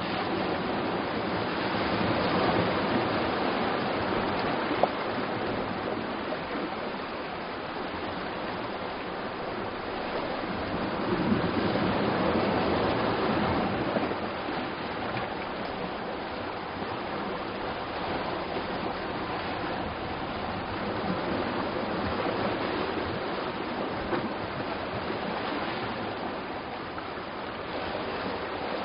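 Sea surf washing on a rocky shore, a steady rush that swells louder and eases off about every ten seconds.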